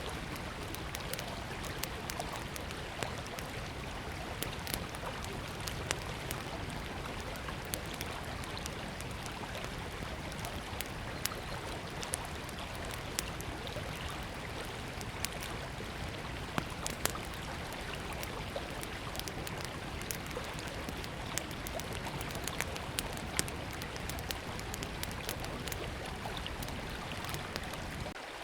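Small wood fire crackling with irregular sharp pops over the steady rush of a flowing river.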